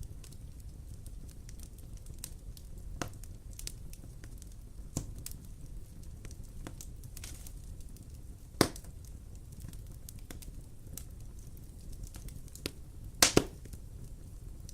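Wood fire burning in a fireplace: a steady low rumble with scattered crackles, a loud pop about two-thirds of the way through and a sharp double pop near the end.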